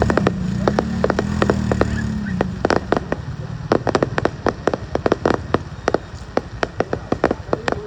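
Fireworks going off: an irregular string of sharp bangs, several a second, with a low steady hum under the first couple of seconds.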